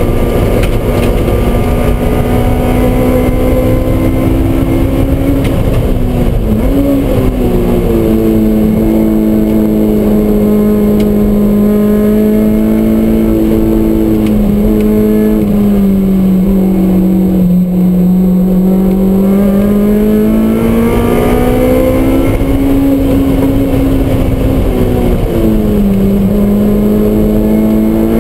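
2009 Honda S2000's inline-four engine, breathing through a test pipe and an aftermarket cat-back exhaust, running at high revs under load, heard from inside the cabin. Its pitch sags slowly and climbs again through the long corners, with two brief dips and recoveries, about six seconds in and near the end.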